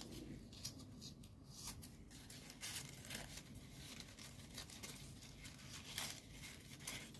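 Folded paper origami units rustling and scraping faintly as they are slid and tucked into one another, in short irregular crinkles, the strongest about six seconds in and near the end.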